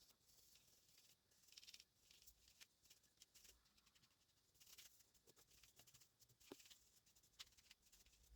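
Near silence with faint, scattered small clicks and a few brief soft rubbing sounds, as of quiet handling of keyboard parts.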